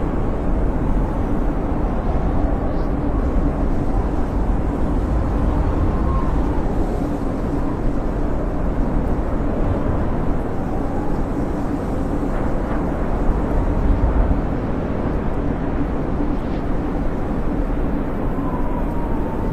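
Blizzard wind howling steadily with a deep rumble, and a faint whistle that wavers up and down now and then.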